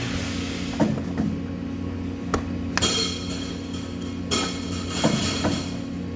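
Steady electrical hum of workshop machinery, with sharp metallic knocks and clanks of metal parts being handled. A hiss runs for about two seconds in the middle.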